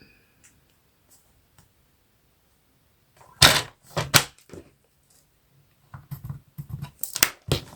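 A few sharp knocks and clicks of craft tools, such as a ruler and pencil, handled on a tabletop: three separate knocks about halfway through, then a quicker run of small clicks and taps near the end.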